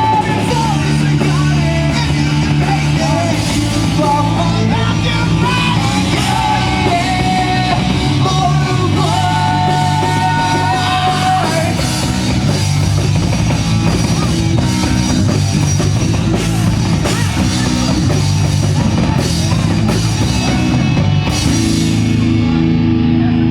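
Live rock band playing loud, with drum kit and a sung or lead melody line over the first half.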